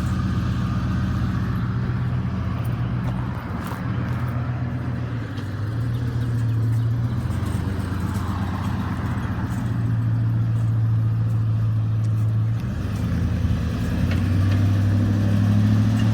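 A high-mileage 1999 Ford F-150 engine running at a steady idle. Its note rises slightly and gets a little louder over the last couple of seconds.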